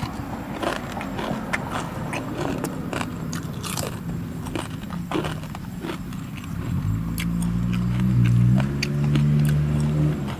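A person biting and chewing crunchy food close to the microphone, a run of sharp crunches and clicks. About two-thirds of the way in a louder low, steady hum with a couple of steps in pitch joins and holds to the end.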